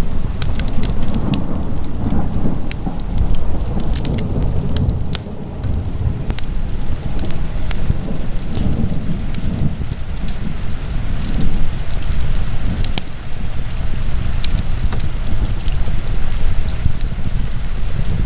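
Wood fire burning in a fireplace: a constant low rumble of flames with many sharp, irregular crackles and pops.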